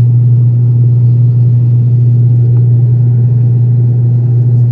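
ATR 72 turboprop engines and propellers running steadily at takeoff power: a loud, even low drone with a fainter second tone above it.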